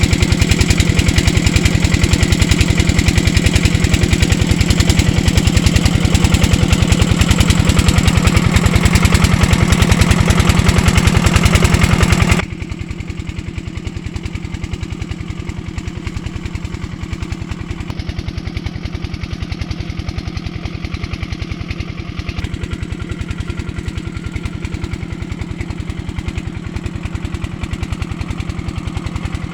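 Diesel engine running steadily with an even, rapid firing beat; about twelve seconds in the sound suddenly becomes quieter and duller while the engine keeps running.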